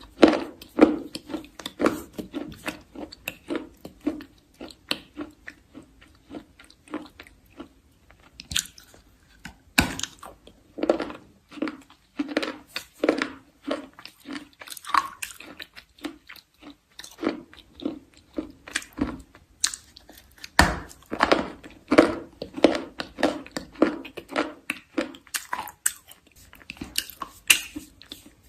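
Chalk being bitten and chewed close to the microphone, a dense irregular run of crunches. There are a few sharper, louder bites about ten seconds in and again about twenty seconds in.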